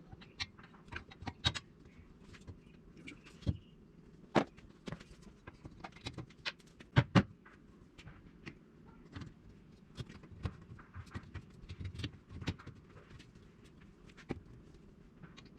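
Irregular clicks and knocks, with two louder knocks about seven seconds in.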